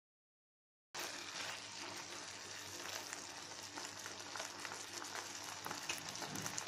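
Chopped ridge gourd, tomatoes and green chillies sizzling in oil in a pan on the stove, a steady crackle that starts about a second in, as the pieces cook down soft.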